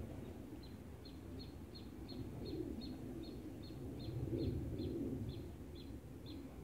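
A small bird calling a short, high, downward-dipping note over and over, about three times a second, with a low rumble underneath.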